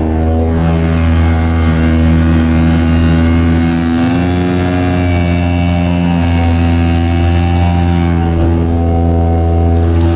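Game Fisher outboard motor running steadily close by. Its pitch rises a little about four seconds in and settles back near the end.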